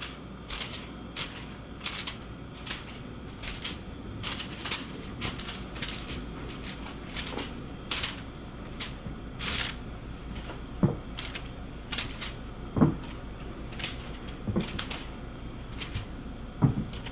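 A string of sharp, irregular clicks and taps, roughly one or two a second, with a few duller knocks in the second half.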